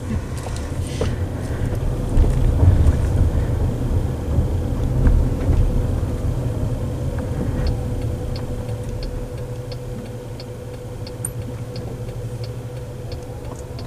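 Car moving on the road, heard from inside the cabin: a steady low rumble of tyres and road, strongest in the first half. Through the second half a faint steady hum sits under it, along with light, even ticking about one and a half times a second.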